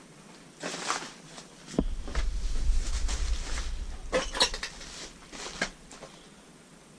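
A few sharp knocks and clicks, with a low rumble on the microphone from about two seconds in to about five seconds.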